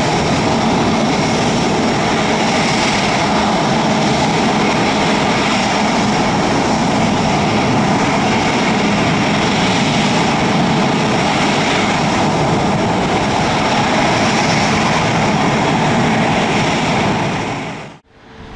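Airbus A350's Rolls-Royce Trent XWB jet engines running steadily at low power: a loud, even rush with a faint whine on top. The sound fades out and cuts off about a second before the end.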